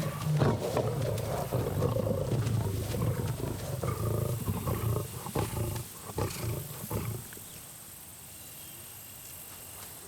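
Lions roaring and snarling aggressively, as when a pride drives off a returning former member. The roaring stops about seven seconds in, leaving a steady, quiet background.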